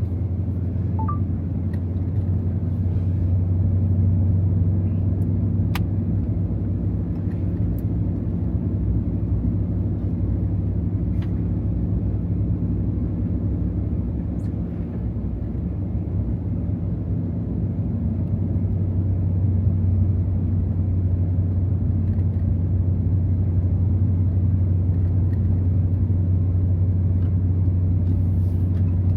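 Steady low drone of a 2024 Ram TRX's supercharged 6.2-litre V8 and drivetrain, heard from inside the cab while cruising.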